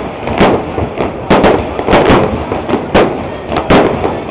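Aerial fireworks shells bursting in quick succession, a sharp bang about twice a second, each with a short echoing tail.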